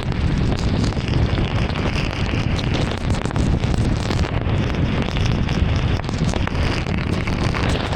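Heavy rain on a moving car with tyres on a wet road: a steady, dense rush of noise with many small scattered ticks from the drops.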